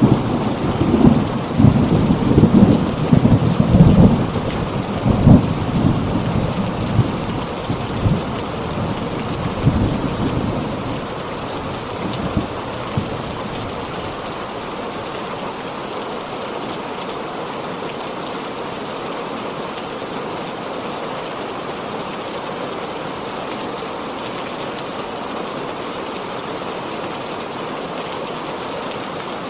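Heavy rain falling steadily, with thunder rumbling loudly over the first ten seconds or so and dying away. After that only the steady rain remains.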